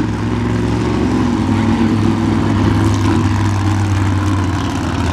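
Monster truck engines running loud and steady, with a deep, even engine note and no clear revving up or down.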